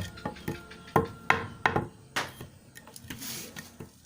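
A run of sharp knocks and clanks, several with a brief ringing tone, followed by a short scraping hiss about three seconds in.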